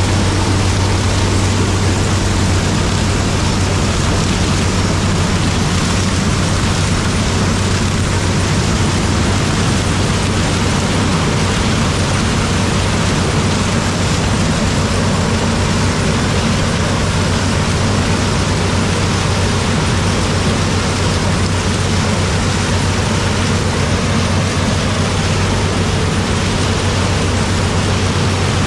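Heavy farm diesel engine running steadily at constant speed, with a strong even low hum and no change in pitch.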